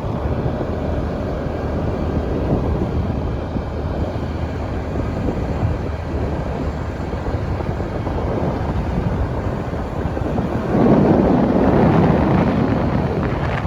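Wind buffeting the microphone and a motorbike running while riding on the road. The noise swells louder for about two seconds near the end.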